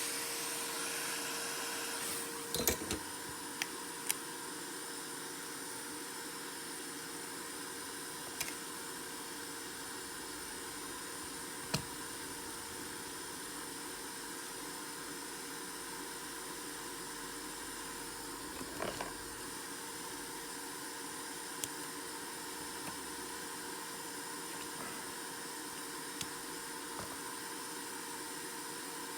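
Small motor-driven blower running with a steady whir and hiss, with a few light sharp clicks of small tools on the phone scattered through.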